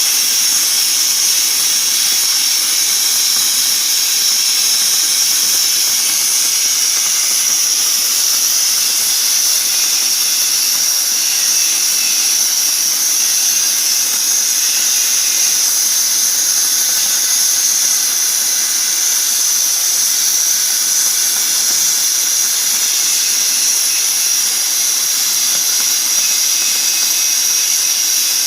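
CNC cutting torch cutting thick mild steel plate: a loud, steady hiss of gas jetting through the cut, unbroken throughout.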